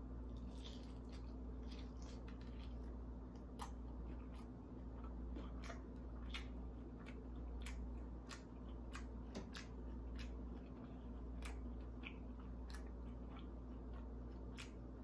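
Close-up chewing of a bite of deep-fried, breadcrumb-coated lobster tail: irregular crisp crunches, about one or two a second, over a faint steady hum.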